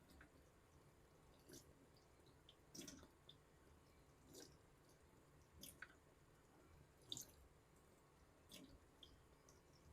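Faint strokes of a straight razor drawn across a wet sharpening stone, one about every second and a half, each a short wet swish with a light click.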